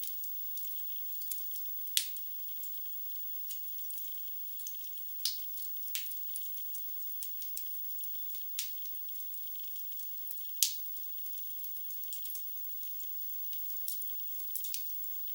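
Wood logs burning in a fireplace, crackling. A steady fine crackle runs throughout, with sharper pops every second or two; the loudest come about two seconds in and about ten seconds in.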